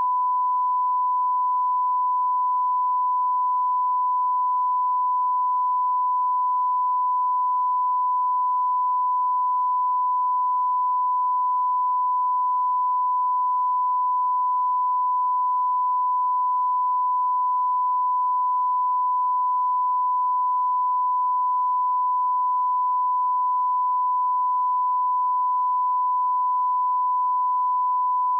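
A single pure electronic tone, like a test tone or beep, held steady and unbroken at one pitch and one level.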